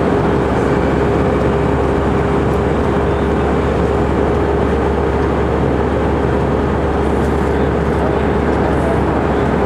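Steady cabin noise inside an Airbus A319 in flight: an even rumble of engines and airflow with a constant hum running through it.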